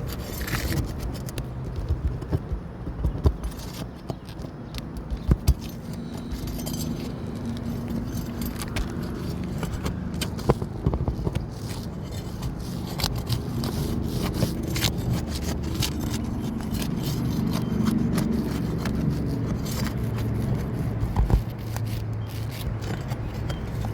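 Scraping and sharp clicks of a roofing tool being worked under asphalt three-tab shingles to free the damaged one, scattered irregularly, over a low steady rumble.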